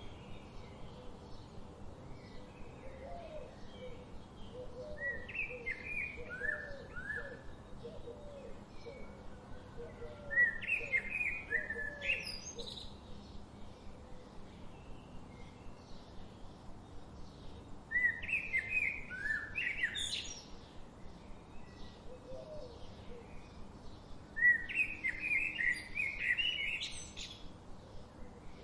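A songbird singing in four separate phrases, each two to three seconds of quick chirping notes ending in a sharp rising sweep. A lower, softer note repeats about twice a second under the first half.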